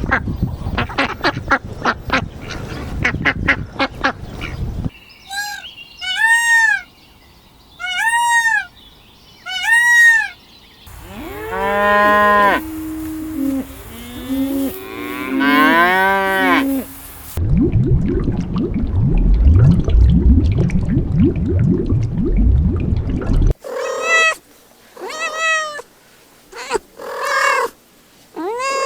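A succession of farm animal calls, one kind after another, among them a cow mooing and a cat meowing in repeated short calls.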